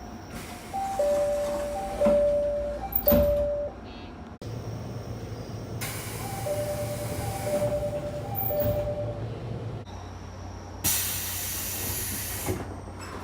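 JR local train door chimes, a two-note ding-dong repeated three times, as the doors slide shut, heard twice in succession. Each time there is a hiss of air from the pneumatic door engines, with a knock as the doors close on the first, and a loud burst of air hiss near the end.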